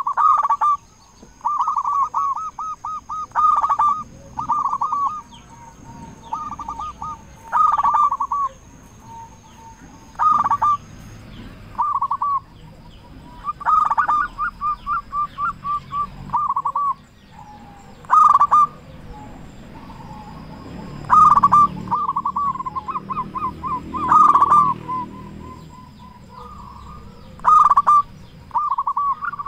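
Zebra dove (perkutut) cooing repeatedly: the phrases come every couple of seconds, each a loud note followed by a quick run of short, rapidly repeated coos.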